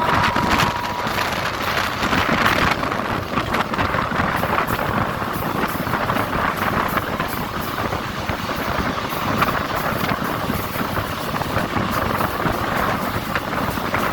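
DEMU (diesel-electric multiple unit) passenger train running: a steady rumble and hiss with frequent short clatters. A faint steady tone fades out about a second in.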